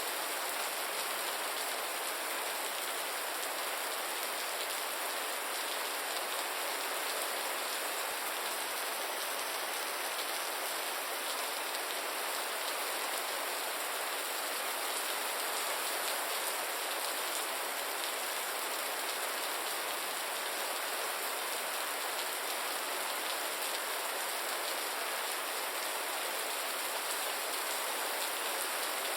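Steady rain falling on a surface: an even hiss of many fine drops with no change in intensity.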